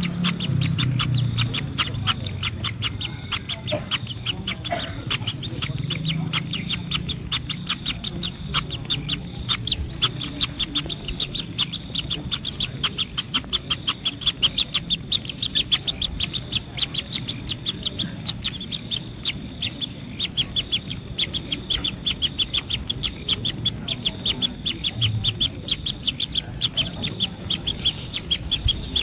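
Bird calling in a rapid run of short, high chirps, about four a second, over a steady high-pitched insect drone.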